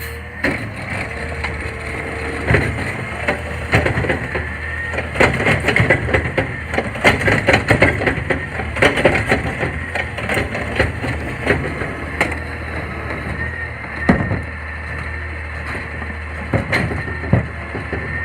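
Garbage truck compacting refuse: repeated cracking and crunching as the load is crushed, over a steady engine hum and a faint hydraulic whine.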